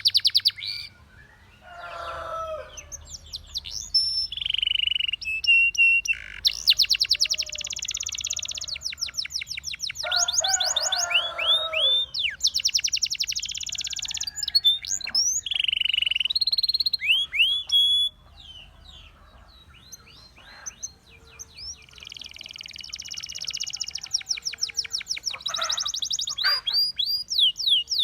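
Canary singing a long varied song: fast rattling trills and rolls alternating with runs of repeated rising and falling whistled notes, broken by a couple of short pauses.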